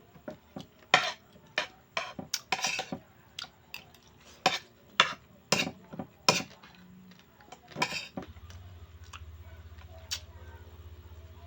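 Cutlery clinking and scraping on a plate during a meal: a dozen or so sharp, irregular clinks over the first eight seconds. After that a low steady hum takes over.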